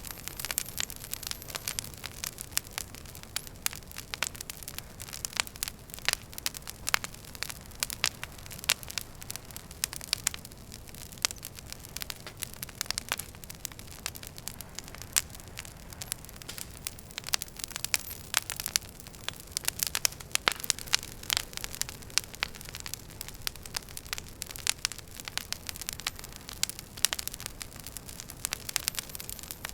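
Wood fire burning in a fireplace: frequent, irregular sharp crackles and pops over a steady low hiss.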